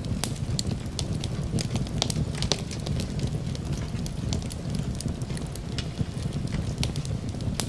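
Fireplace fire crackling, with frequent irregular sharp pops over a low, steady rumble.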